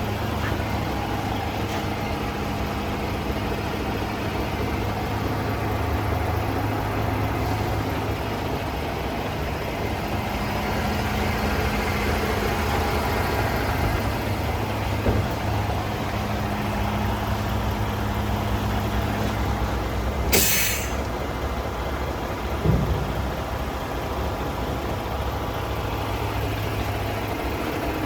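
DAF CF 480 truck's diesel engine idling steadily. About two-thirds of the way through there is a short hiss of released air, followed a couple of seconds later by a brief knock.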